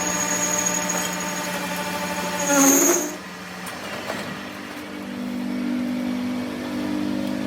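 A workshop machine's motor running with a steady, pitched hum. About two and a half seconds in, a short loud surge comes as the pitch sags and the sound drops away; a lower steady hum builds again about five seconds in.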